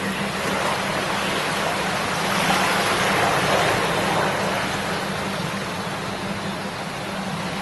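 Shallow river babbling steadily over stones, swelling a little louder a few seconds in.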